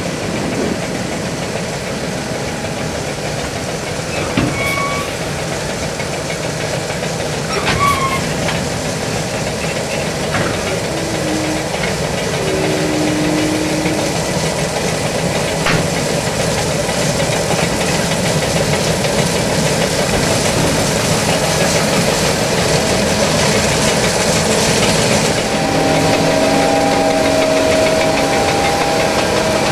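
John Deere S660i combine harvester running steadily: a continuous mechanical noise of engine and machinery with a few scattered clicks. Near the end a couple of steady humming tones join in.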